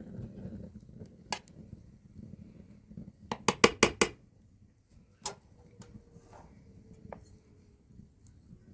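Dishes and utensils clinking: one sharp clink, then a quick run of five or six clinks about three and a half seconds in, then a couple of single clinks.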